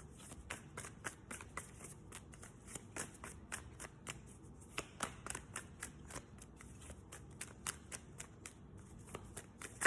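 A tarot deck being shuffled by hand: a steady run of quick card flutters and light snaps, several a second.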